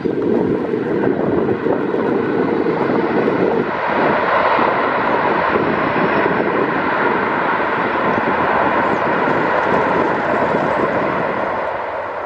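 Airbus A319 jet engines running loud during its landing rollout: a steady rushing noise that changes tone about four seconds in and eases off near the end.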